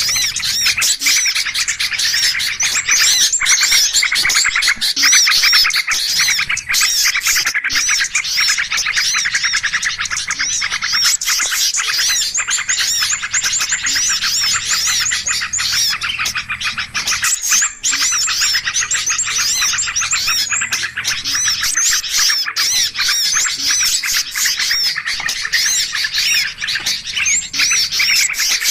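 A dense, unbroken chorus of many small songbirds chirping and chattering over one another: a noisy bird-lure recording made to draw small birds in.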